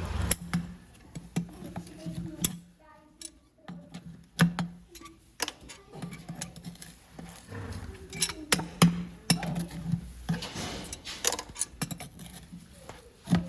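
Farrier's tools working on a horse's hoof: irregular sharp clicks and knocks, a few louder than the rest, over a low hum.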